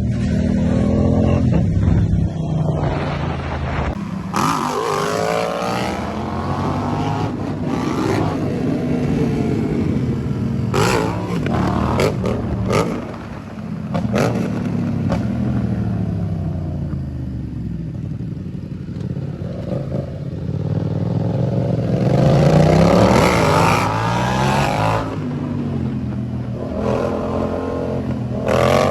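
Motorcycle engines revving, the pitch climbing and falling again and again, with sudden changes between passages.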